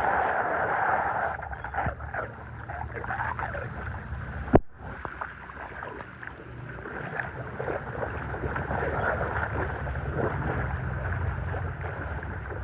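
Water rushing and splashing, with a single sharp click about four and a half seconds in.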